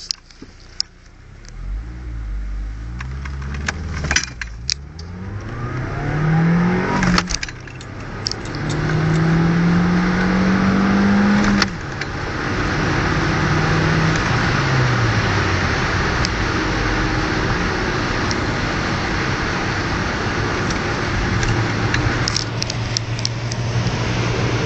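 1998 Audi A3 1.8T's turbocharged four-cylinder engine accelerating hard through the gears: the engine note rises, then drops at each gear change about 4, 7 and 12 seconds in. After that a steady rush of wind and road noise at speed takes over, with a few sharp clicks near the end.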